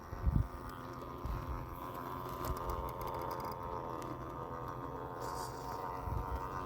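Electric motor and drivetrain of an RC rock crawler whining steadily while it drives, with a few low thumps, the loudest just after the start.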